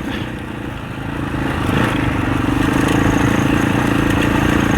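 Husaberg 650 four-stroke enduro dirt bike engine under way on a rocky trail, running lighter for about a second and then pulling harder and louder as the throttle opens, holding steady to the end.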